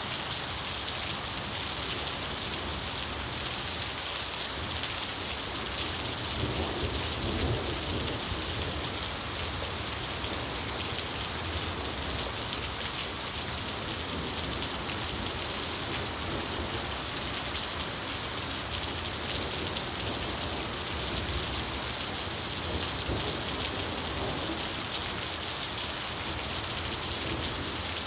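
Steady rain falling, with distant thunder rumbling low beneath it, swelling about a quarter of the way in and again near the end.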